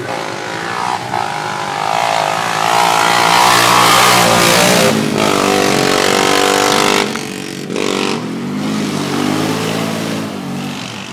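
Honda Recon 250 ATV's single-cylinder engine running with no muffler, loud and revving under throttle as it rides past. The throttle comes off suddenly about seven seconds in, and the engine carries on lower.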